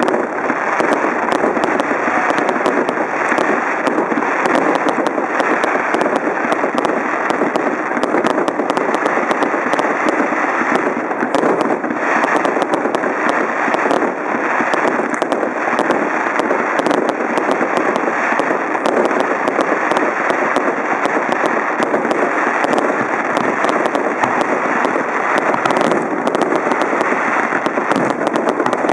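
Fireworks display: a dense, continuous barrage of bangs and crackling reports, loud and unbroken.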